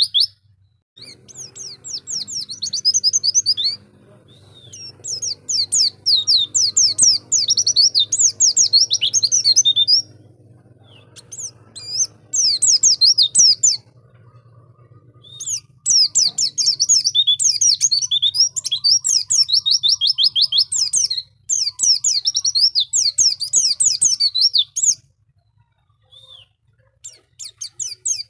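White-eye (pleci) singing: a fast, high-pitched twittering song in several long bursts of a few seconds each, broken by short pauses. A faint low hum runs underneath.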